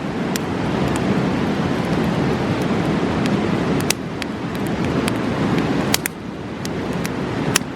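Steady roar of a rushing mountain river, with a campfire's burning wood crackling and giving sharp pops now and then, the loudest pops about four and six seconds in and just before the end.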